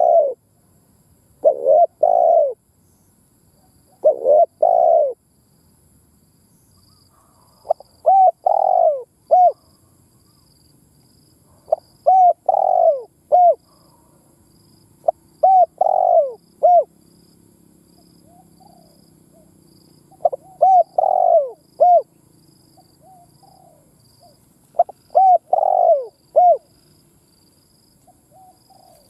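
Spotted dove cooing: short phrases of three or four rounded coo notes, repeated every few seconds. These are the lure-bird calls ('gáy', 'gù', 'thúc') that keepers play to provoke a male dove into calling.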